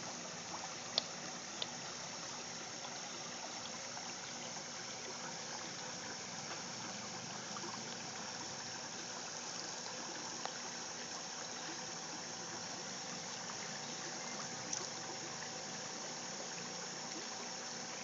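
River water flowing with a steady, continuous rush, broken by a few faint brief ticks.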